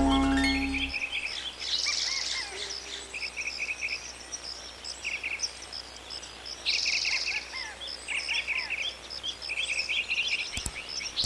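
Songbirds chirping, short repeated trilled phrases coming and going. Background music ends about a second in.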